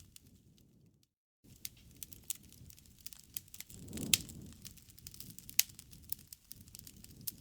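Wood fire crackling, with irregular sharp pops and a couple of louder cracks about four and five and a half seconds in. The sound cuts out completely for a moment about a second in, then starts again.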